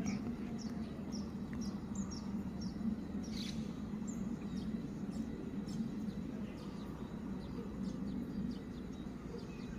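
Birds chirping in short, quick downward notes, repeated many times, over a steady low background rumble.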